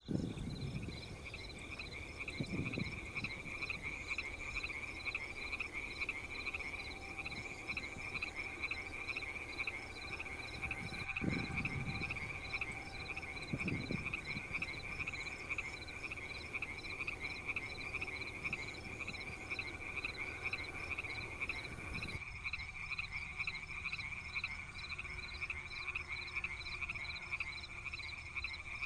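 Chorus of frogs calling from rice paddies, a continuous fast, even pulsing trill, with a few brief low rumbles about 3, 11 and 14 seconds in.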